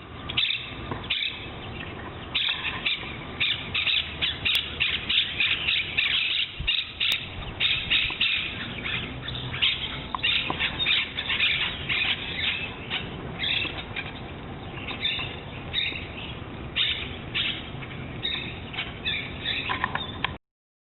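A flock of birds calling, with many short harsh calls and chatter overlapping in a dense, continuous chorus that cuts off suddenly near the end.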